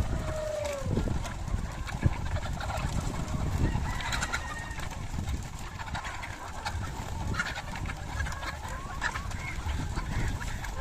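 ISA Brown chickens clucking and calling, with one drawn-out, falling call near the start and scattered softer clucks after it.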